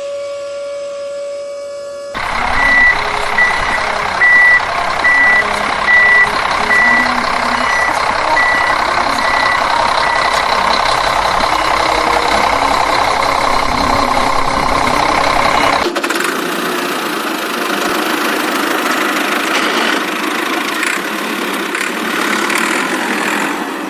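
A truck's reversing alarm beeps about once every two-thirds of a second over a running engine. The beeping stops after about eight seconds, and the engine keeps running. Near the middle, the engine sound changes abruptly.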